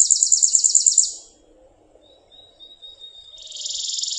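Chipping sparrow singing: a very dry, rattly, rapid trill of identical chips that stops about a second in, then after a short pause starts again near the end.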